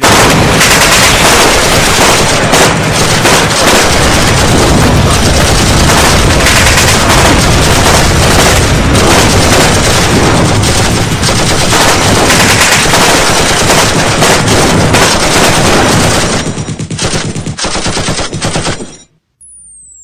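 Loud machine-gun sound effect: rapid, continuous automatic fire that cuts off abruptly near the end. Right after it, a high whistle begins, falling in pitch.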